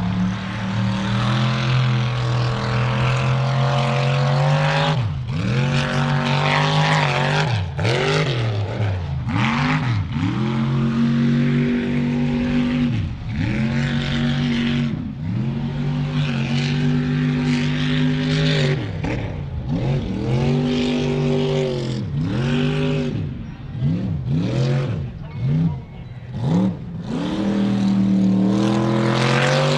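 A mud truck's engine held at a steady high pitch for a few seconds, then revved down and up again and again, about once a second, before settling back to a steady pitch near the end.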